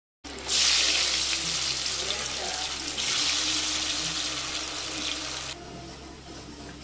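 Potato slices sizzling in hot oil: a loud, steady frying hiss that starts suddenly, swells again about three seconds in, and drops to a quieter sizzle near the end.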